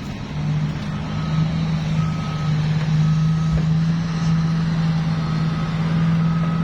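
A vehicle's reversing alarm beeping about once a second, each beep about half a second long, over the steady low drone of a running engine.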